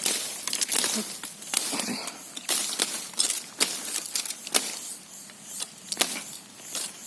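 A knife hacking at a green forked branch held down under a boot: irregular sharp cracks and crunches of the blade biting into the wood, with leaf and twig rustling between them.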